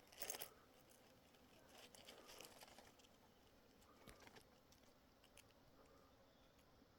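Near silence with a few faint rustles and clicks, the loudest about a quarter second in.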